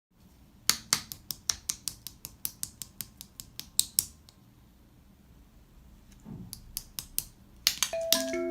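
A run of quick, sharp keystroke clicks like typing, about four or five a second, stopping for a couple of seconds before a few more clicks; glockenspiel-like music notes begin near the end.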